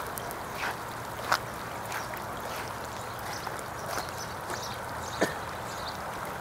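Steady rush of floodwater flowing across a road, with short, sharp animal calls now and then, about five in all.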